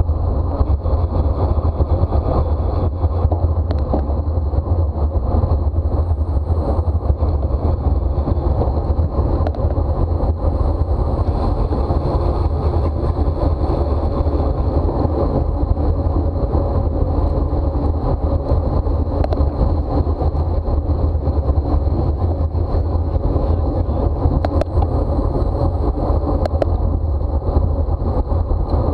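Steady wind rush buffeting the microphone, with road noise from a bicycle ridden at race speed.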